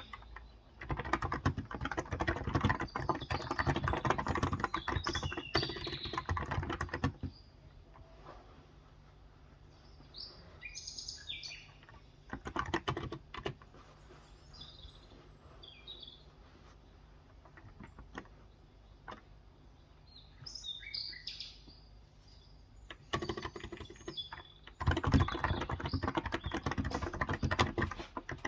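Typing on a Cox Endeavor electrostatic capacitive (contactless) keyboard with 35 g switches: fast runs of keystrokes in three bursts, the longest in the first seven seconds and the last five seconds. Birds chirp in short high calls in the pauses between bursts.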